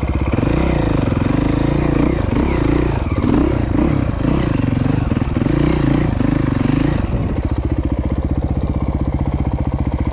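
Dirt bike engine revved up and down in quick, uneven blips from about half a second in, then settling back to a steady idle after about seven seconds, over the steady pulse of an idling motorcycle engine close by.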